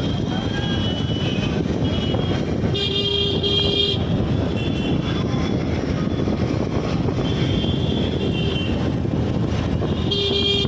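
Train running with a steady rumble, with a short horn toot about three seconds in and another near the end.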